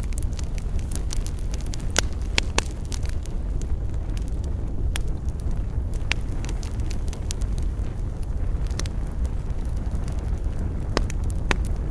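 Wood fire burning with a steady low rumble and irregular sharp crackles and pops, several louder snaps standing out.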